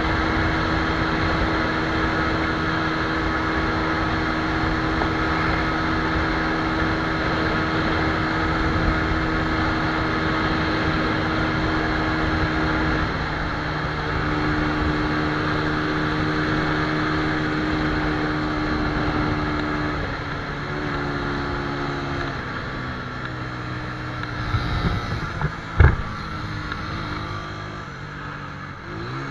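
Minsk D4 125 motorcycle engine running steadily, its speed dropping in steps about halfway through and again a few seconds later. Then it turns quieter and uneven, falters with a single sharp knock, and dies.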